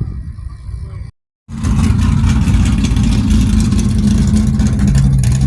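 A car engine running loud and steady with a deep low rumble, after a sudden cut to silence about a second in.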